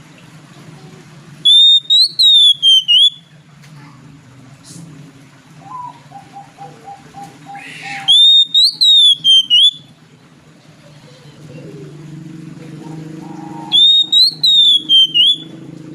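Oriental magpie-robin (kacer) singing the same loud, high whistled phrase three times, each about a second and a half long, rising then falling and broken into quick pulses. A soft run of short repeated notes comes between the first and second phrases.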